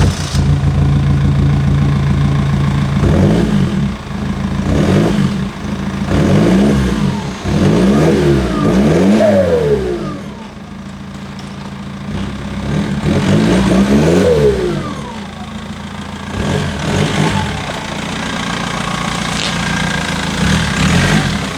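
A BMW E46 320d's M47 four-cylinder turbodiesel, freshly started on a new glow plug relay module, idling and being revved in a series of short throttle blips. After the bigger revs a falling whistle can be heard. Between the blips the engine settles back to a steadier idle.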